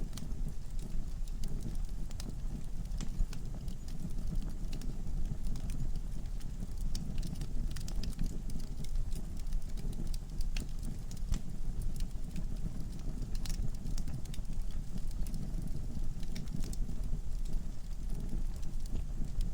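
Wood fire in a fireplace, with a steady low rumble and frequent sharp crackles and pops from the burning logs.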